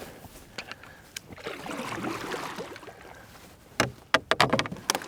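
Water sloshing and splashing in shallow marsh water, as from something wading or moving through it, with a quick run of sharper splashes or knocks near the end.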